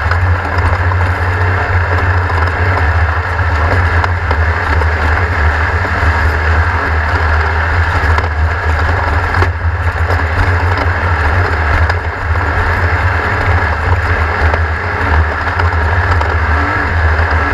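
Race car engine running steadily, with a strong low rumble and no sharp changes in pitch.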